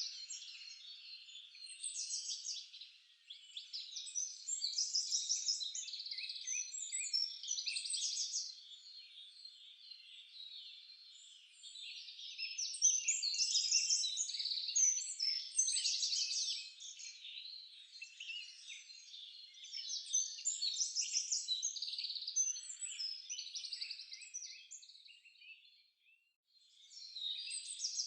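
Several songbirds singing at once: a dense chorus of chirps and fast trills that thins out briefly near the end.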